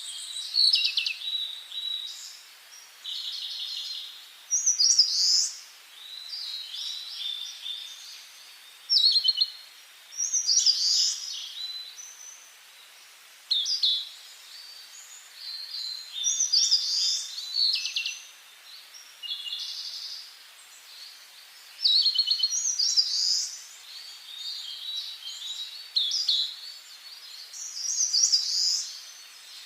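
Songbirds singing: short, high, varied phrases with trilled notes, one every two to three seconds, over a faint steady hiss.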